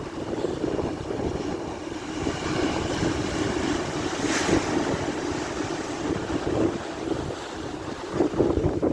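Strong gusting wind buffeting the microphone over a rough sea, with the rush of surf; a louder surge about four and a half seconds in.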